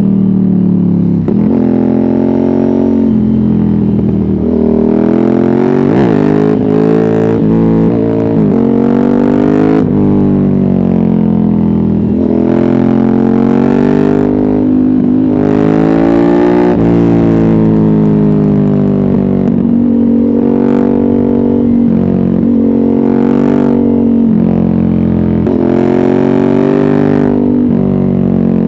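Ducati Hypermotard 796's air-cooled L-twin through a Termignoni exhaust with no catalyst and no dB killer, ridden hard. The engine note climbs in pitch and drops back again and again as the bike is revved up and the gears are changed.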